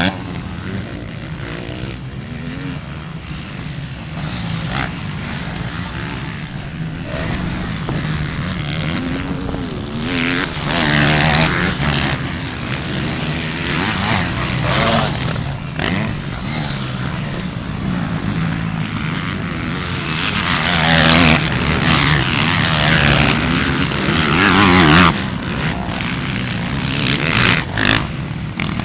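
An engine running steadily, with several louder stretches of rushing noise over it.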